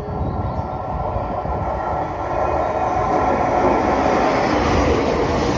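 Train Suite Shiki-shima, JR East's E001 series cruise train, approaching and running in along the platform. The rumble of its wheels on the rails grows steadily louder as it nears.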